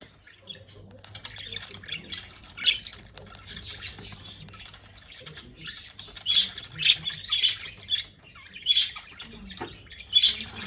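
Lovebird calls: short, high, squeaky chirps repeated irregularly, several louder ones in the second half, over a faint low hum that stops about halfway.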